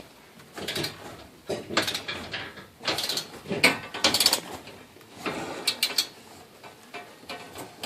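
Ratchet wrench clicking in short repeated strokes, about five bursts of rapid ratcheting spaced roughly a second apart.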